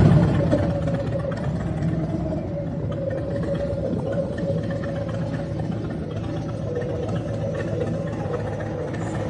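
Motorcycle engine running steadily with a low rumble, loudest in the first second and then even.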